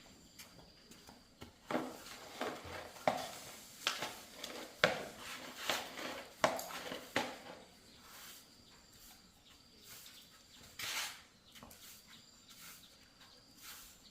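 A string of light clinks and knocks, like hard objects being handled and set down, about a dozen over five seconds, followed by a short rustle.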